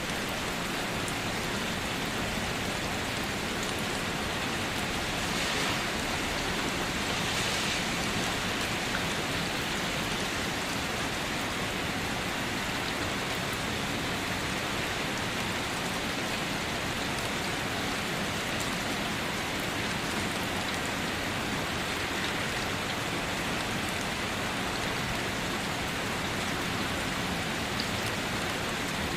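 Steady rain falling and pattering on surfaces, an even hiss of drops, a little heavier about six to eight seconds in.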